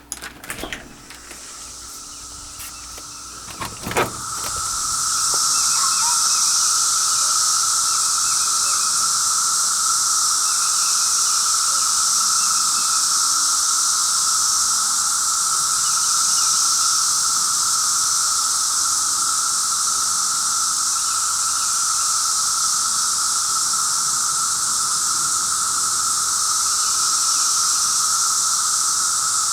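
A few clicks and a knock, then a loud, steady chorus of cicadas swells in about four seconds in and holds without a break: a continuous high shrill over a lower droning tone.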